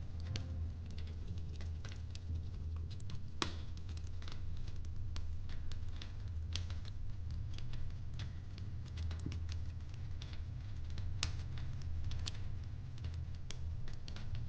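Wood fire crackling in a fireplace: irregular snaps and pops, a few louder ones, over a steady low hum.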